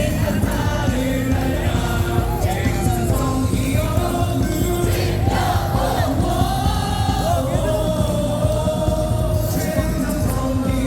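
Baseball stadium crowd singing a cheer song along with loud amplified music.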